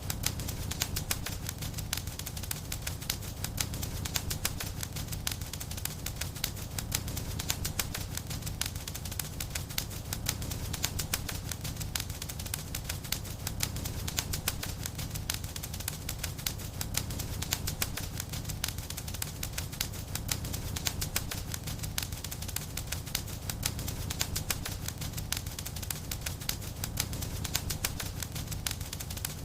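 Wood fire crackling in a fireplace: dense, rapid crackles and pops over a steady low rumble of the flames.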